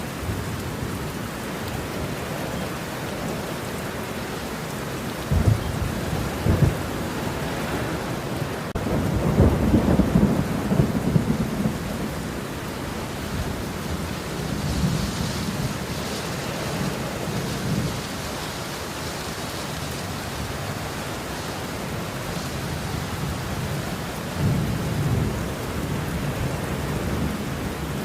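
Steady rain with rolling thunder: low rumbles swell several times over the rain, the loudest and longest about a third of the way in, a shorter one near the end.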